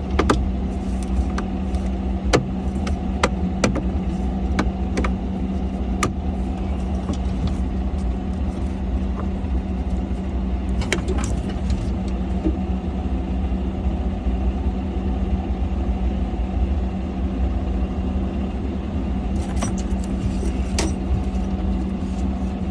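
Excavator diesel engine idling steadily, with scattered clicks, knocks and rattles of cab filter parts and panel fasteners being handled, several in the first few seconds and a cluster near the end.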